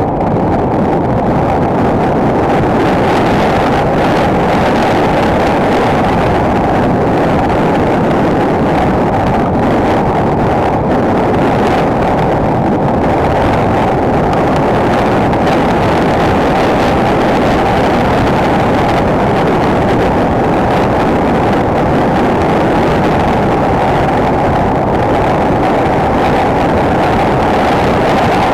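Enduro motorcycle riding at a steady speed: the engine running evenly under wind rushing loudly over an action camera's microphone, without clear changes in revs.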